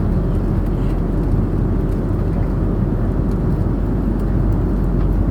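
Jet airliner cabin noise in turbulence: a loud, steady low rumble of engines and airflow, with faint scattered rattles.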